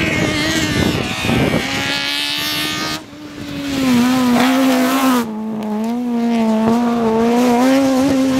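Race car engines running hard at high revs. About three seconds in the sound cuts abruptly to another car holding a steady, wavering engine note.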